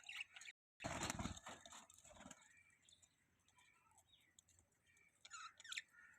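Budgies chirping and twittering softly in short scattered calls, with a brief louder burst of noise about a second in.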